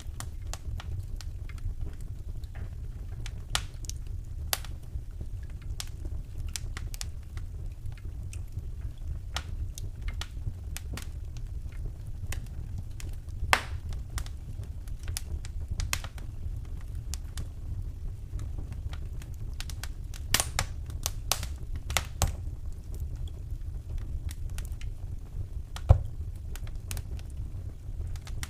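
Wood fire burning in a fireplace, crackling with scattered sharp pops over a steady low rumble; a louder pop comes near the end.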